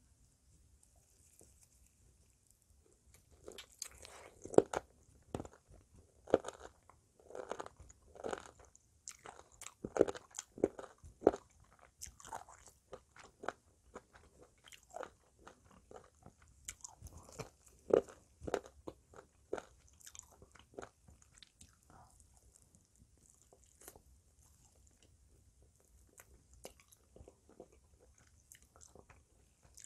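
Close-miked biting and chewing of smoked pork spare ribs, a dense irregular run of bites and chews that turns sparser and quieter about two-thirds of the way through.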